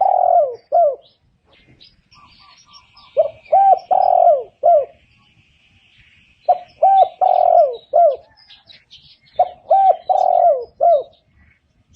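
Spotted dove cooing, repeating its phrase of a few short coos around one longer drawn-out coo about every three seconds, three times. Faint chirps of small birds come between the phrases.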